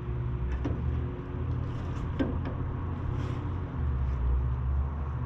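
A steady low mechanical hum with a few faint light clicks and knocks.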